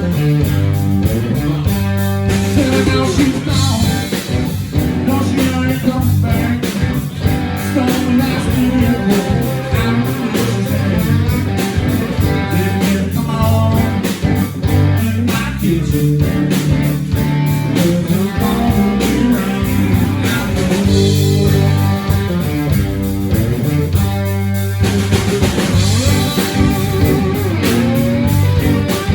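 Live blues-rock band playing a song: guitar and drum kit, with singing.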